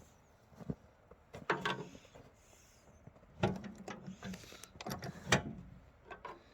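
Irregular knocks, clunks and scrapes of hands-on handling as a derailed snowplow is worked back onto the rails, with the loudest strikes near the middle and about five seconds in.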